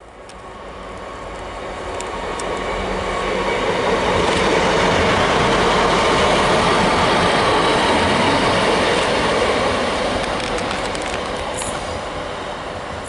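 Passenger train passing through a station, growing louder to a peak in the middle and then fading as it moves away.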